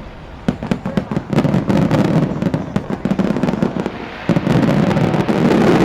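Aerial fireworks display: a dense run of shell bursts, with many sharp cracks and pops over a continuous low rumble, easing briefly about four seconds in before building again.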